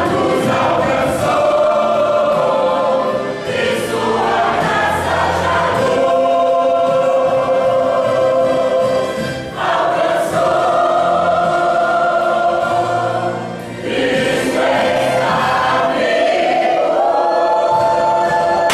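Choir singing a Christian hymn with instrumental accompaniment, in long held phrases with short breaths between them.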